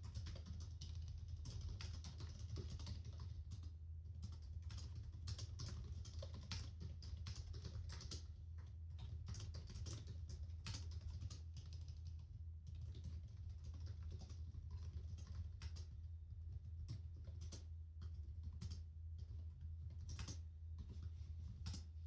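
Typing on a computer keyboard: a steady, irregular run of key clicks, with a few brief lulls, over a constant low hum.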